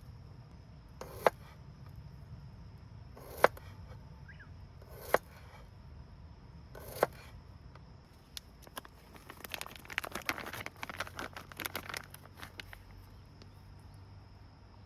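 Four sharp knocks about two seconds apart, then a few seconds of dry rustling and crackling.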